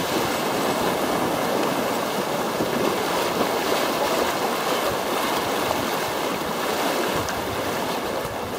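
Whitewater rapids rushing loudly and steadily around a canoe as it runs straight through them.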